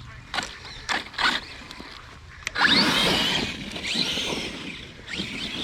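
Arrma Kraton 6S RC monster truck's electric brushless motor: a few short throttle blips, then about two seconds of hard acceleration with a whine that rises and falls in pitch as the wheels spin.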